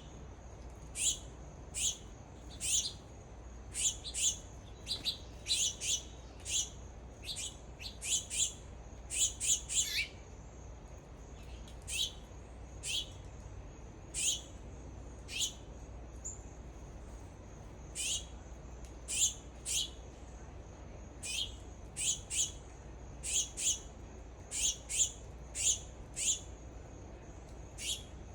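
Birds giving short, sharp chip calls, each a quick downward sweep, repeated at irregular intervals of about one to three a second.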